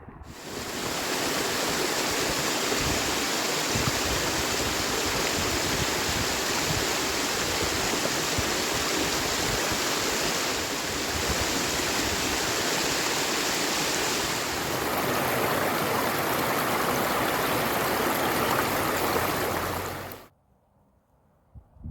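Steady rush of flowing water from a stream. It starts abruptly and cuts off suddenly near the end.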